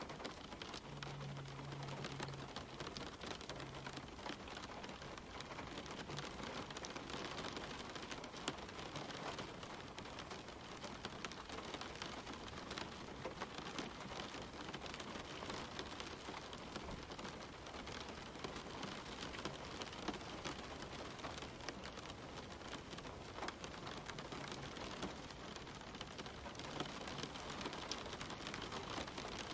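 Steady gentle rain falling on leaves and the ground: an even hiss with many individual drops ticking through it.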